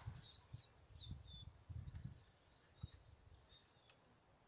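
Faint bird calls: short, high chirps that each slide downward, about five times, over a low uneven rumble.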